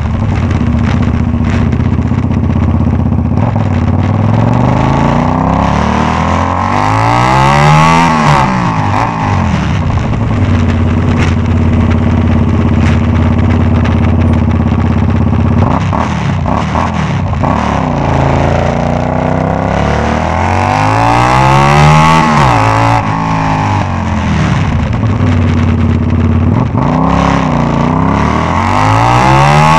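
Kasinski Comet GTR 250's V-twin engine running with no muffler on a straight exhaust, holding steady and then revved up and down several times, with two long sweeps up in pitch and back down and a few short blips.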